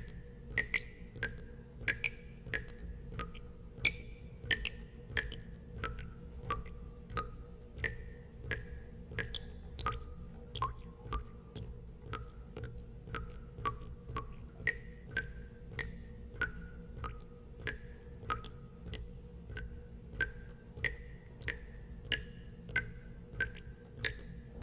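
Water drops falling one by one into water, about one and a half a second, each a sharp plink with a short ringing note whose pitch changes from drop to drop. A steady low hum lies beneath.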